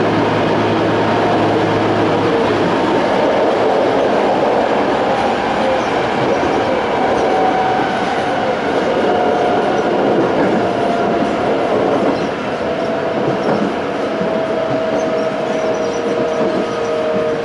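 Toei 5300 series electric train running, heard from inside the car: wheels on rail with the tones of its Hitachi-built Mitsubishi GTO inverter and traction motors, slowly dropping in pitch. A low hum fades out about two seconds in.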